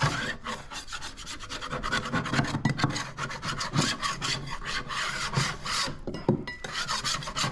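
Scraper pushed in rapid, repeated strokes across a wooden drawer, rasping off paint and finish softened by chemical stripper.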